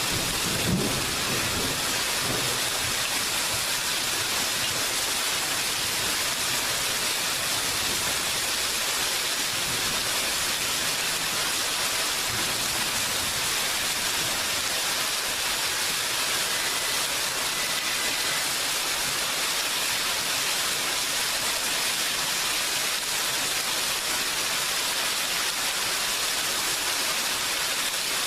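Steady, heavy rainfall, an even hiss of rain on surfaces. A low thunder rumble fades out in the first second.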